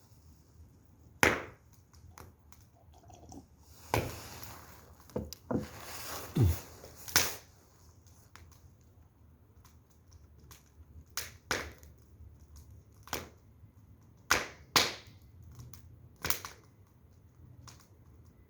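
Firewood burning, crackling with irregular sharp pops, a few of them loud.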